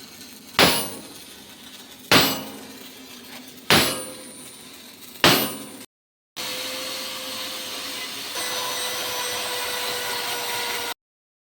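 A hammer striking steel four times, about a second and a half apart, each blow ringing briefly. After a short break comes a steady, hissing tool noise lasting about five seconds.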